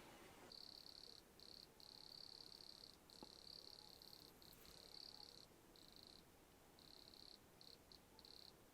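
Crickets chirring faintly: a high-pitched trill in stretches of about half a second to a second, broken by short gaps.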